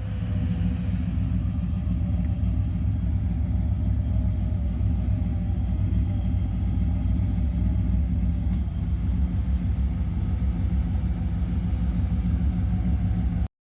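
The 1955 Chevy Bel Air's engine running steadily with a deep, even rumble. The sound cuts off abruptly near the end.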